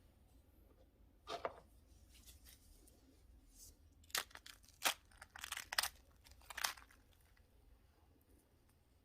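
Baked pumpkin bread with a crisp biscuit topping being torn apart by hand, in a few short crackling rips with most of them clustered in the middle.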